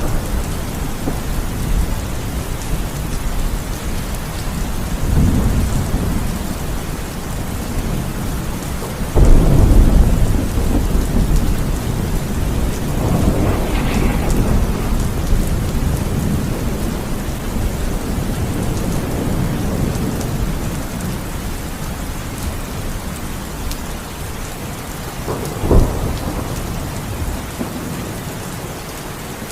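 Heavy rain falling steadily, with rolling thunder: a loud rumble about a third of the way in, further swells of rumble, and a short sharp clap near the end.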